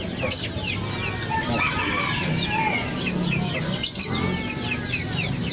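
Chickens clucking among many caged birds chirping together, a dense stream of short, quick chirps that goes on without a break.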